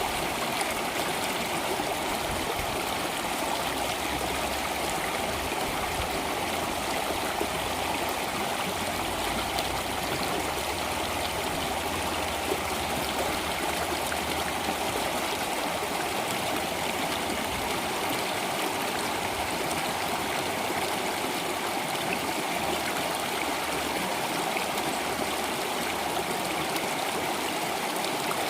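Flowing stream water, a steady even rush with no music over it.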